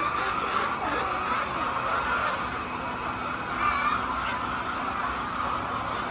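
Flock of laying hens clucking together, with a few short higher calls standing out.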